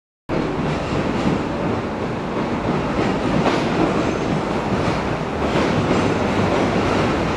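Steady rumble of train noise on an underground station platform, with a few faint clicks.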